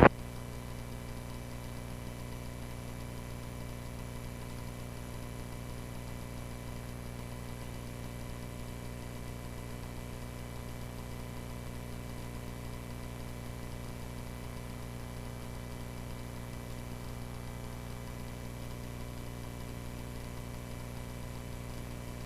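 Small airplane's engine droning steadily in flight, heard faintly through the cockpit audio feed, with faint steady electrical whines above it.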